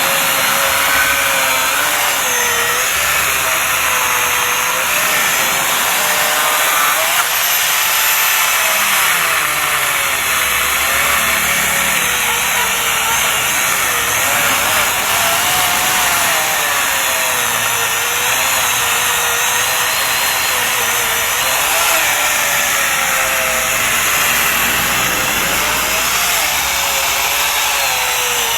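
Makita reciprocating saw running steadily while cutting a thick tree branch, its motor whine rising and falling as the load on the blade changes.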